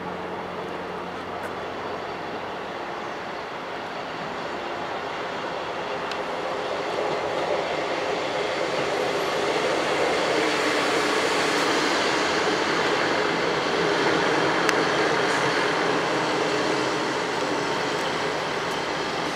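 Train running through the station: its rumble and wheel noise build up, are loudest about halfway through, then ease off, with a few sharp clicks along the way.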